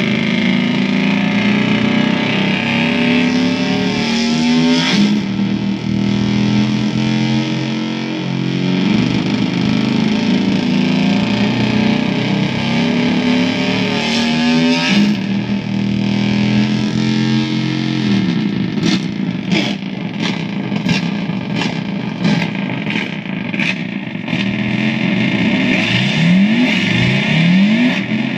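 Guitar effects pedals (Audible Disease Rupture 2, Schizodelay and EarthQuaker Devices Rainbow Machine) self-oscillating in a feedback loop: loud noise of layered droning tones whose pitch steps and shifts. From about two-thirds of the way through it breaks into a rapid stuttering crackle with rising pitch glides near the end.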